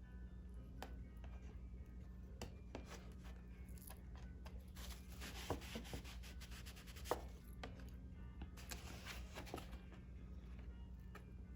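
A glued parchment tab being worked loose by hand from a Torah scroll, its glue softened with vodka: light scratching and rubbing with scattered small clicks, and two longer scratchy passes about five and nine seconds in.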